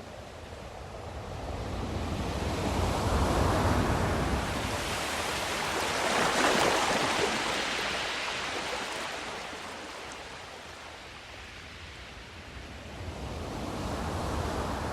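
Sea waves washing in slow surges, swelling and ebbing: the loudest surges come about three and six seconds in, and another builds near the end.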